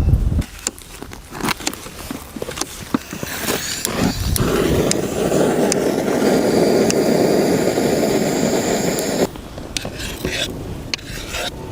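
Camp cooking sounds: scattered clinks and knocks of pots and utensils, then a steady rushing noise for about five seconds that cuts off suddenly, followed by more light knocks.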